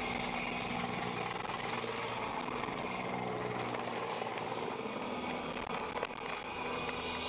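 Vehicle engine and road noise, steady, with a sharp knock about six seconds in.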